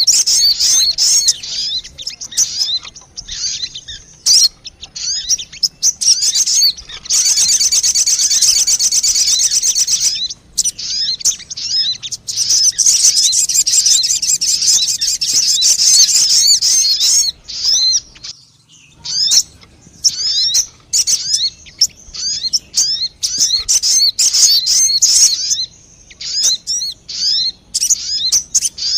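Bird-lure recording of sogon bird calls: rapid high-pitched chirps in quick series, broken by two long stretches of dense fast trilling.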